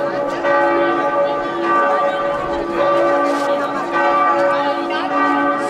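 Church bells ringing continuously, several bells overlapping with strikes every fraction of a second and long ringing tones.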